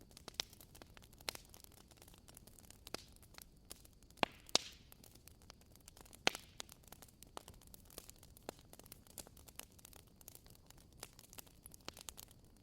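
Burning firewood crackling, with irregular small pops over a low hiss and a few louder snaps about four and six seconds in.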